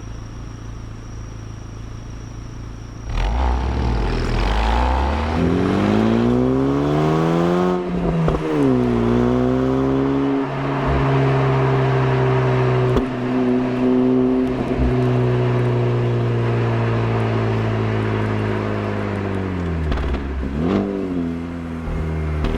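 Stock exhaust of a Honda Civic Type R (FL5) with its 2.0-litre turbocharged four-cylinder, heard close to the muffler in Sport mode. It idles, then pulls away about three seconds in, revs climbing to a gear change about eight seconds in. It then runs at steady revs until they drop near the end and pick up again briefly.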